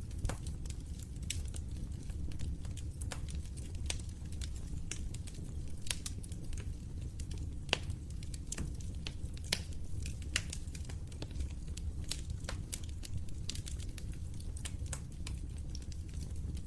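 Wood fire crackling: a steady low rumble of burning with frequent irregular snaps and pops.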